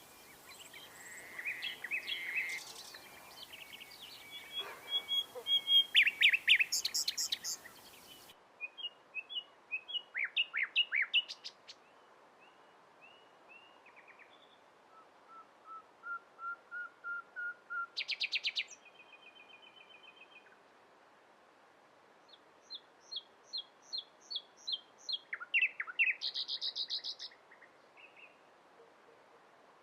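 Common nightingale singing in separate phrases, each a rapid run of repeated notes and trills, with pauses of a second or two between them. One phrase, about 15 s in, is a series of lower whistled notes that swell in loudness.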